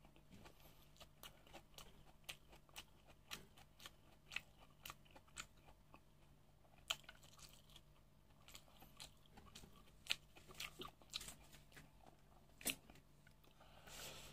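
A person chewing food close to the microphone, a steady run of small clicks about two a second with a few louder ones.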